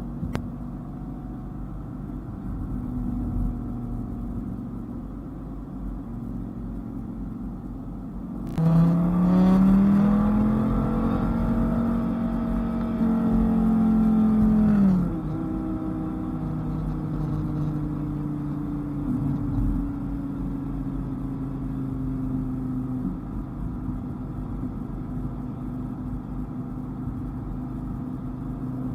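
Dodge Viper's V10 engine running at steady cruise, then accelerating hard about a third of the way in, its pitch climbing and holding for several seconds before it eases off and settles back to a steady drone.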